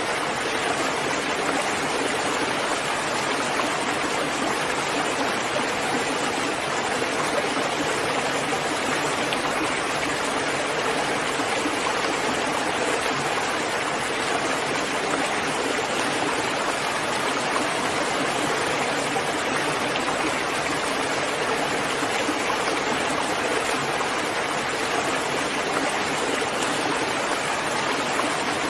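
Steady rain falling, an even hiss with no single drops or changes standing out.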